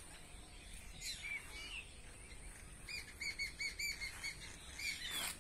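Small birds chirping: short, high, repeated chirps, scattered at first, then a quick run of about eight of them about three seconds in.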